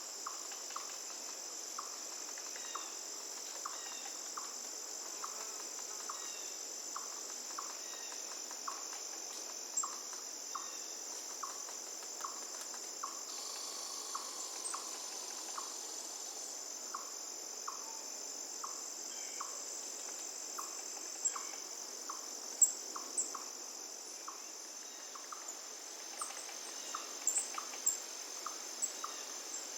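A forest insect chorus of crickets: a steady high-pitched trill, with a short lower call repeating about twice a second. A few sharp bird chirps come in near the end over a faint hiss of flowing water.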